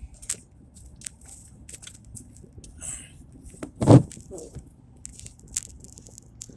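Vehicle tyres crunching and crackling through deep drifted snow over a steady low rumble, with one louder thump about four seconds in.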